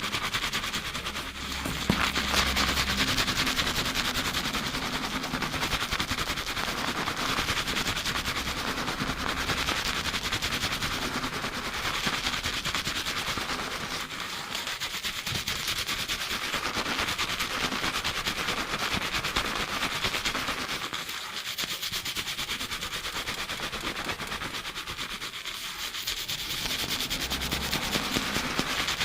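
Fast shampoo scrubbing of lathered hair and scalp, close to binaural microphones: a dense, rapid crackling and rubbing of fingers working through foam, easing briefly a few times.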